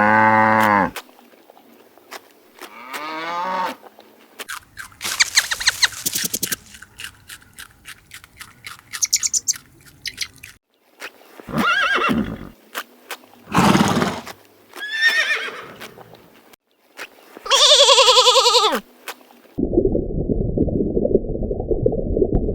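A string of different animal calls, one after another with short gaps. They are pitched cries of different lengths, including a stretch of rapid clicking about five seconds in and a long call falling in pitch around eighteen seconds. A low, rough, noisy sound runs through the last few seconds.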